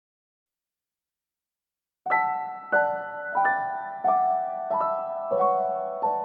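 Silence, then background piano music begins about two seconds in: a slow run of single notes or chords struck about every two-thirds of a second, each left to ring and fade.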